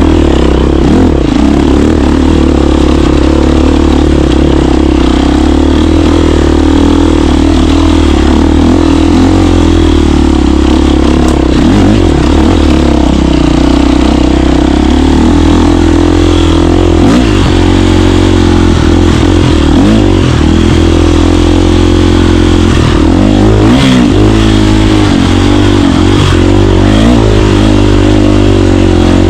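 KTM 350 dirt bike's single-cylinder four-stroke engine running loud and close while riding. It holds fairly steady at first, then the pitch rises and falls repeatedly in the second half as the throttle opens and closes.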